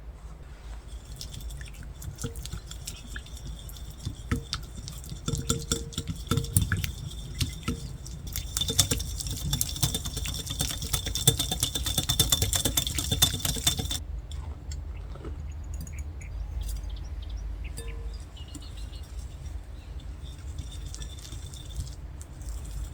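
Kitchen utensil clicking and scraping against a mixing bowl, sparse at first and then rapid and dense for several seconds before easing off.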